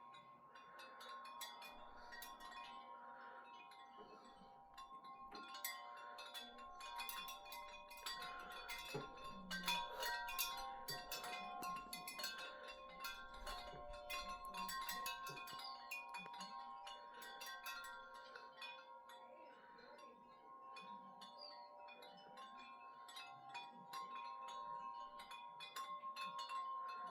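Wind chimes ringing in the wind, many overlapping strikes with long ringing tones, busiest in the middle.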